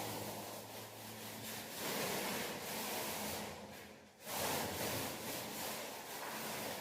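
Paint being worked onto a wall in repeated rubbing strokes, with a short break about four seconds in before the strokes resume.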